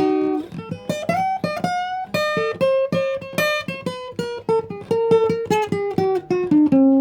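Acoustic guitar playing on its own between sung lines, a quick run of plucked notes and strums, with one note sliding upward about a second in.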